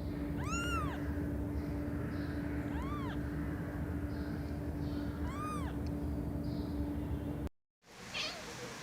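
Cat giving short high-pitched meows, each rising then falling in pitch, spaced a couple of seconds apart over a steady low hum. The sound cuts off abruptly near the end.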